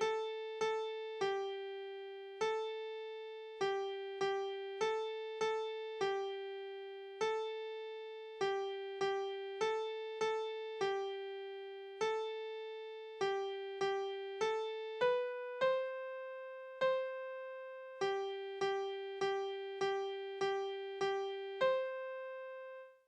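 A piano plays a simple melody one note at a time at a steady beat. It mostly moves between G and A, climbs to B and C, and ends on a held C that cuts off suddenly.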